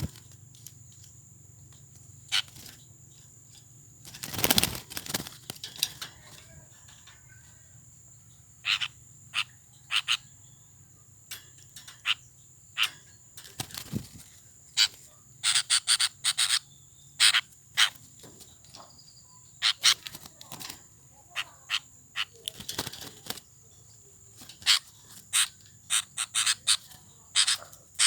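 A sooty-headed bulbul fluttering and hopping about its cage: irregular short flaps and knocks, sometimes single, sometimes in quick runs of several.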